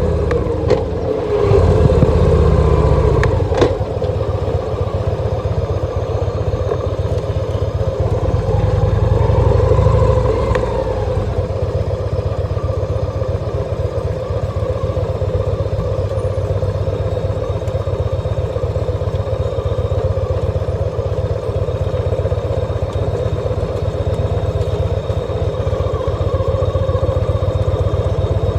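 2014 Victory Cross Country motorcycle's V-twin engine running while being ridden, with a steady pulsing exhaust. The revs rise and fall a couple of times, most clearly around nine to ten seconds in.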